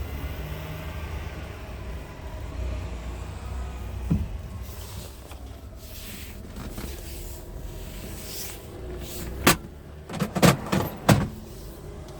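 Scania R tractor unit's diesel engine running at a steady idle, with a few sharp clicks or knocks near the end.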